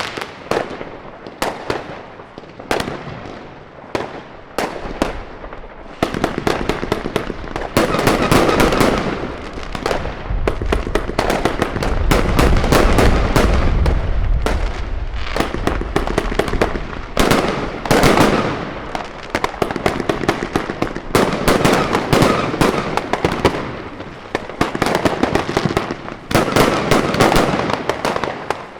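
New Year's Eve fireworks: a dense, continuous barrage of firework bangs and crackling, with a heavier, deeper stretch from about 8 to 16 seconds in.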